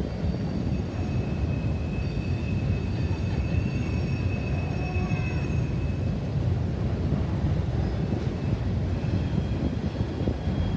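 Double-stack container cars of a freight train rolling over a steel bridge: a steady rumble of wheels on rail, with a faint high wheel squeal for a few seconds in the first half.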